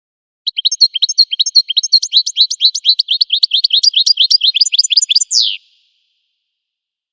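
Finch song: one fast, loud phrase of sharp twittering notes, about six a second, lasting about five seconds and ending on a single longer falling note.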